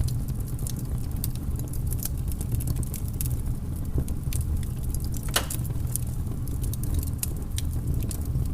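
Wood fire crackling in a fireplace: irregular small pops and snaps over a steady low rumble, with one louder pop about five seconds in.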